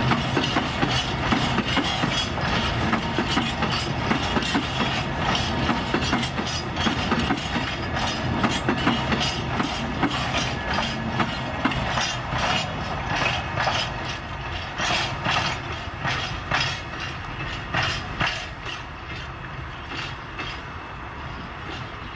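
A long freight train of covered wagons rolling past, steel wheels clicking over the rail joints. The clatter fades over the last several seconds as the end of the train passes and draws away.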